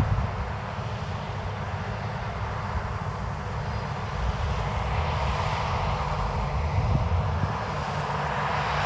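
Large diesel farm machinery running steadily with a low engine rumble, and a rushing noise that grows louder from about four seconds in.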